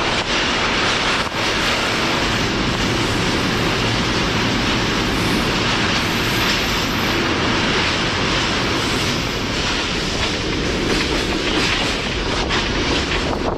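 Freight train running, heard from aboard a wagon: the steady noise of wheels on rails.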